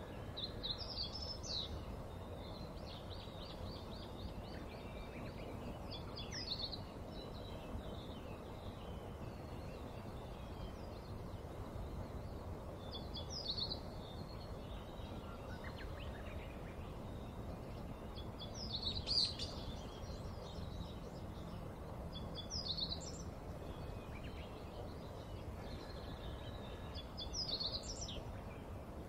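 Small birds giving short high chirps every few seconds, with a brief twittering trill near the start, over a steady low outdoor rumble.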